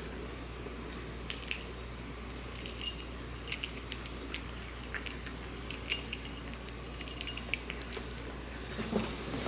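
Light clinks and taps of a food dish, scattered and irregular, with one sharper clink about six seconds in, as a cat eats from it.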